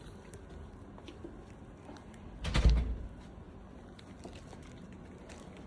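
A single heavy thump or bump about two and a half seconds in, over quiet room tone.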